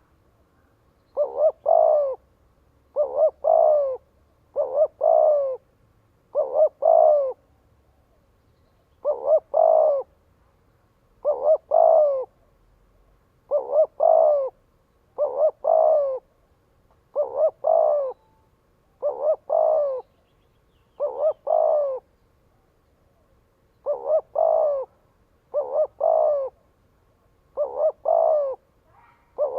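Spotted dove cooing in a steady series of phrases about every two seconds, each two short clipped notes followed by a longer drawn-out coo. This is the fast calling used to provoke and call in other doves.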